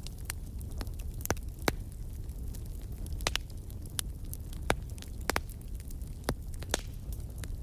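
Wood fire crackling: irregular sharp pops and snaps, about one or two a second, over a steady low rumble of the flames.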